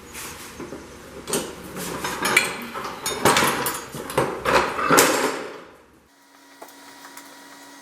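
Irregular metal clanking and knocks as a steel lawn-tractor mower deck is handled and turned over. The clatter stops about six seconds in, leaving a faint steady hum.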